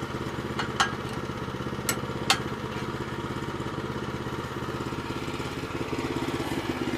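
The gas engine of a Woodland Mills HM122 portable bandsaw mill running steadily, with four sharp clicks or knocks in the first two and a half seconds and a slight change in its tone about six seconds in.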